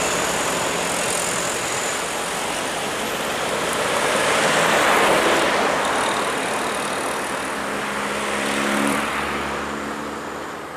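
Road traffic passing close by, mostly heavy trucks: engine and tyre noise swells to a peak about halfway through, and again with a low engine tone near the end, then fades.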